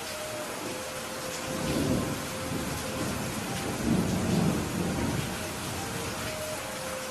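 Heavy rain falling steadily, with thunder rumbling low twice, swelling about two seconds in and again about four seconds in.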